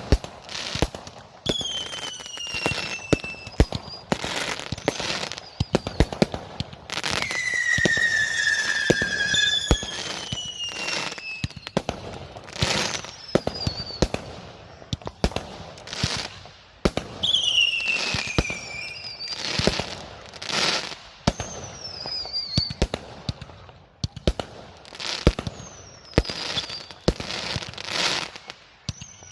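Fireworks going off: a rapid run of sharp bangs and crackles, with several whistling rockets whose shrill whistles slide down in pitch and sometimes overlap.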